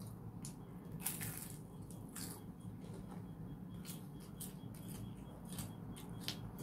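Close-up chewing of a breaded chicken nugget, with irregular short wet mouth clicks and crunches.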